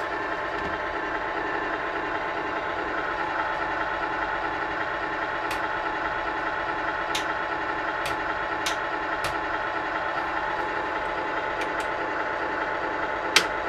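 GT Power light and sound kit Pro in a Tamiya 1/14 RC semi truck, playing a steady simulated truck engine idle through its small speaker. The sound is thin and lacks deep bass. A few sharp clicks come over it, the loudest one just before the end.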